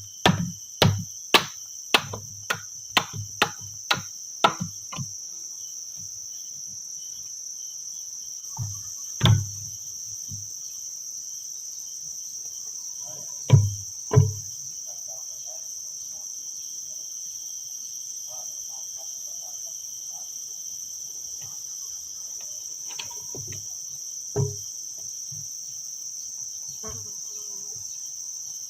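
Steady high-pitched chorus of forest insects such as crickets or cicadas. Over it, a run of dull knocks comes about two a second and grows fainter over the first five seconds, then single knocks sound now and then, mostly in pairs.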